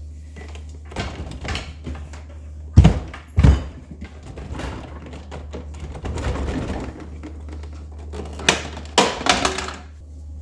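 Hard knocks and clunks from handling the fridge's stuck plastic water filter and its housing: several sharp thunks, the loudest about three seconds in and another cluster near the end, over a steady low hum.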